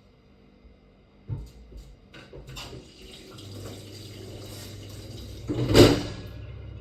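Water running, with a knock about a second in, a low steady hum setting in about halfway, and a loud brief rush of noise near the end.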